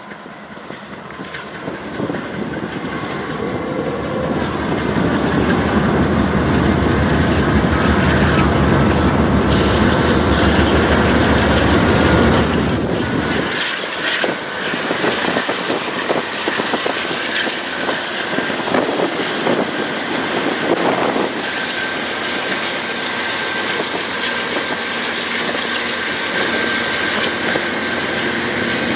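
Train passing at close range: the diesel locomotives' engine drone builds up as they approach and pass, then drops away about thirteen seconds in as the rail cars roll by with a steady clatter of wheels over the rail joints.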